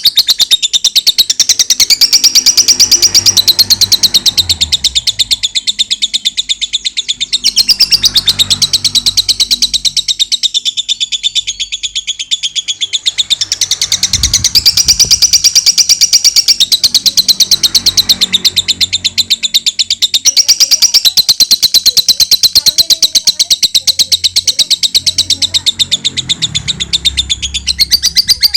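Lovebird singing its ngekek song: a long, unbroken run of very rapid, high chirping notes, many to the second, shifting in pitch every few seconds without a pause.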